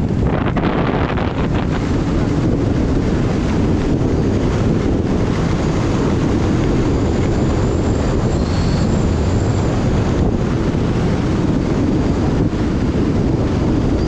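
Wind rushing over the microphone of a skier going fast downhill: a steady, loud rush of noise.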